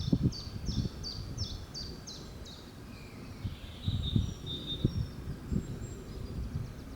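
A songbird singing: a quick run of about eight repeated high notes, each sliding downward, then a different thinner warbling phrase. Irregular low rumbles sit underneath.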